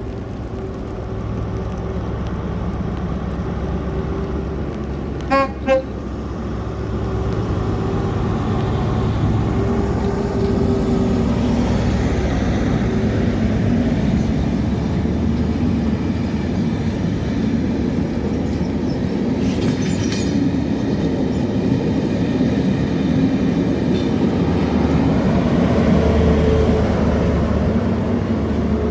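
Train horn giving two short toots about five seconds in, then the Network Rail P.L.P.R. test train running past with a steady rumble of engine and wheels on the rails.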